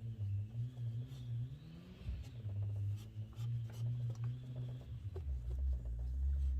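Electric polisher running with a pad buffing compound on a plastic headlight lens: a wavering motor hum with a faint high whine, dropping lower about five seconds in.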